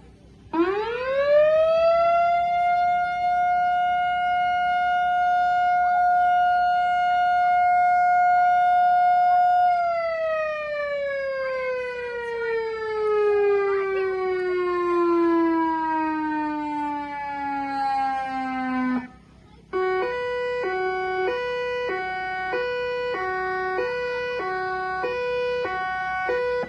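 Whelen electronic outdoor warning siren winding up to a steady tone, holding it for about nine seconds, then winding down until it cuts off. After a short gap it switches to a two-tone hi-lo pattern, alternating between two pitches about once a second.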